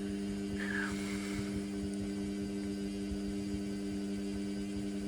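Indesit washing machine running mid-wash with a steady hum, and a brief higher sound about a second in.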